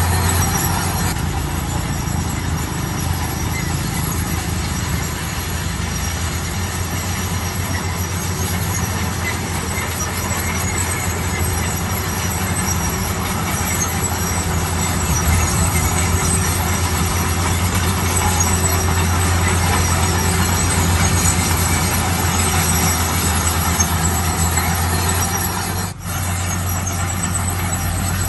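Heavy road-construction machinery working: a steady, low engine hum with a thin high squeal over it, briefly dropping away near the end.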